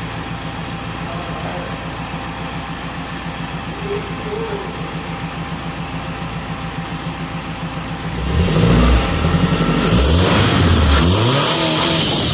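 Turbocharged four-cylinder engine of a Honda Fit idling steadily in neutral, then revved several times from about eight seconds in, loud, with its pitch rising and falling.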